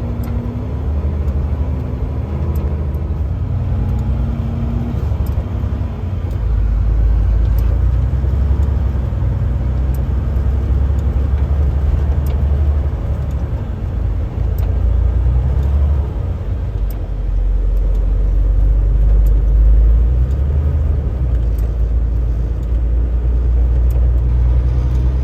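Car-hauler truck driving on a snowy road: a steady low engine and road rumble that swells louder about six seconds in and again past the middle.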